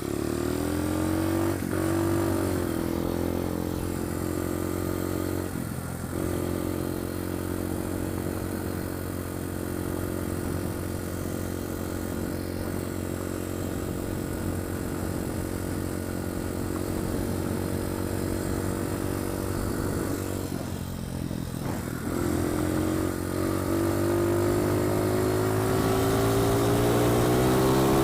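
Pit bike engine running under throttle as the bike is ridden, its pitch rising and falling with the throttle. It drops briefly about six seconds in and again around twenty-one seconds, then climbs steadily toward the end.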